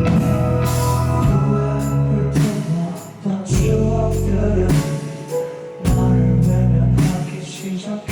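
Live rock band music: drums striking heavy hits with cymbals roughly once a second, over a deep bass line and held guitar chords.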